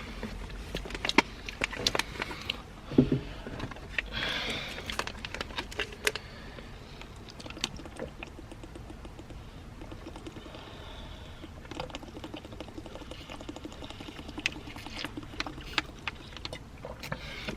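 Scattered light clicks and knocks with a few brief rustling swishes, over a faint steady low hum.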